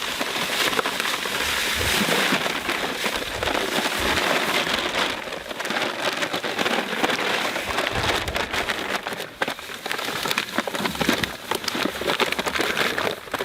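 Dry mortar and cement mix being poured and worked: a steady gritty hiss full of small clicks of grit.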